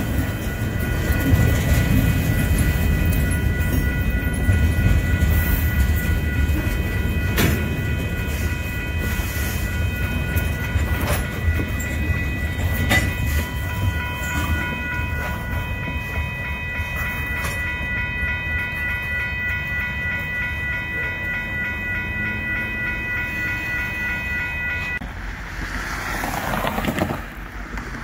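Freight cars rolling past at a grade crossing: a heavy rumble of wheels on rail with scattered clanks, under the steady ringing of the crossing warning bell. The bell cuts off a few seconds before the end.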